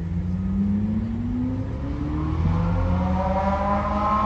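A car engine revving as the car accelerates away, its pitch climbing steadily. The climb breaks briefly about two and a half seconds in, then rises again until near the end.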